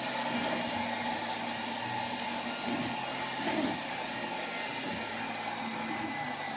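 Ariete cordless wet-and-dry handheld vacuum cleaner running steadily while vacuuming a sofa, with a faint high whine and two brief louder moments around three seconds in.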